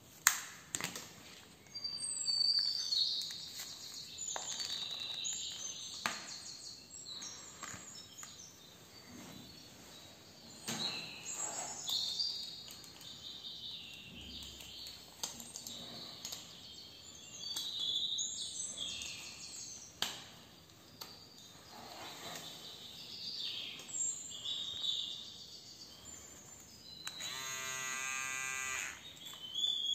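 Small birds chirping and twittering in the background, with scattered clicks and knocks of the hair clipper and its charging cable being handled. Near the end, a steady buzz lasts about two seconds.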